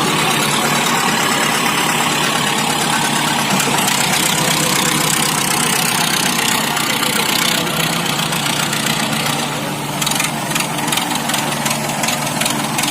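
Tractor diesel engines running loudly and steadily; from about ten seconds in, a fast, even engine beat stands out more clearly.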